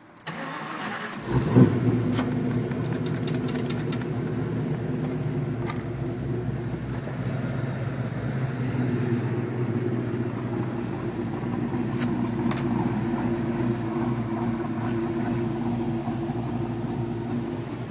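1994 Ford Mustang's 5.0 V8 starting about a second in and settling into a steady idle. The accessory drive is running, with a whining noise that the owner suspects comes from the smog pump.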